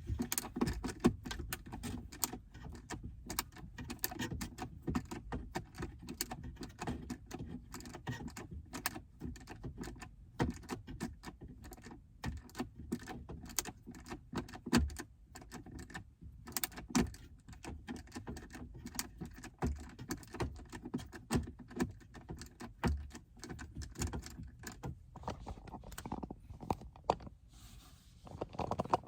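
Irregular clicking, tapping and rattling of tools and plastic interior trim pieces being handled as a car's center console is taken apart, with a few sharper knocks.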